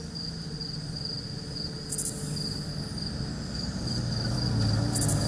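Insects, crickets or similar, chirring steadily in one high, slightly pulsing tone, over a low vehicle engine rumble that grows louder about four seconds in. A brief sharp noise comes about two seconds in.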